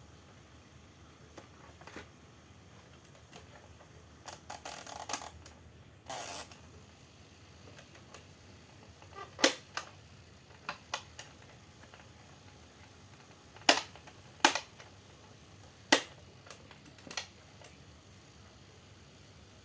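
Irregular clicks and knocks, about a dozen spread out, with a couple of brief rustling bursts in the first third: handling noises.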